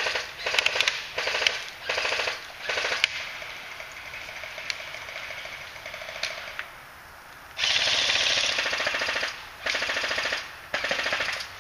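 Airsoft guns firing in rapid full-auto bursts. There are four short bursts in the first three seconds, then a lull of a few seconds with a few single cracks, then three longer bursts near the end, the first lasting about a second and a half.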